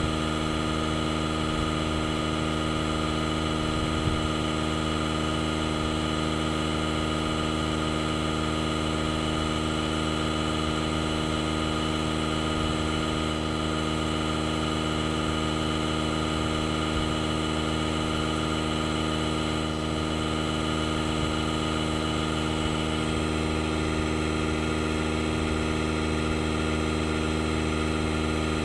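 DeWalt DCC020I cordless air inflator's compressor running steadily with an even, unchanging drone while it pumps up a flat tire.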